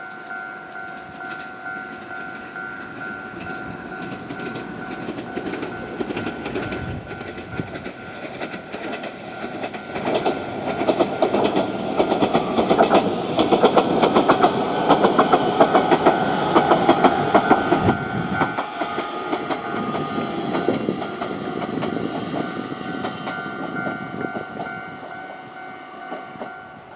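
JR Kyushu 817 series electric train passing, its wheels clattering over the rail joints; the rumble grows to its loudest about halfway through and then fades, with a steady hum underneath.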